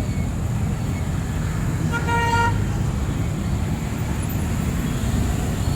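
Steady city street traffic rumble, with one short vehicle horn honk lasting about half a second, about two seconds in.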